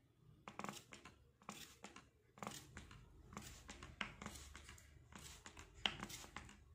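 Hand spray bottle squirting water mist over budgies: a quick series of short hissing sprays, about one or two a second, some in close pairs.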